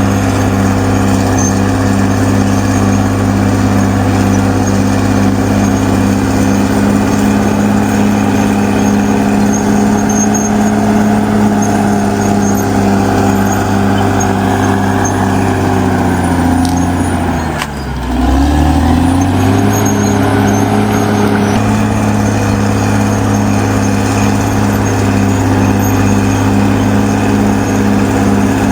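Caterpillar D6R XL bulldozer's diesel engine running steadily at high revs. About sixteen seconds in, the revs sag and drop sharply for a moment, then climb back up within a few seconds.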